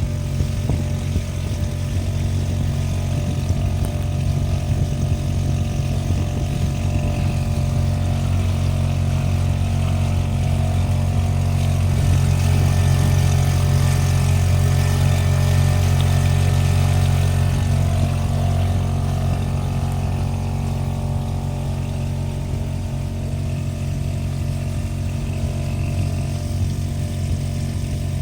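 A sailboat's engine running steadily while the boat motors with the sails down. It grows a little louder about halfway through, then eases back.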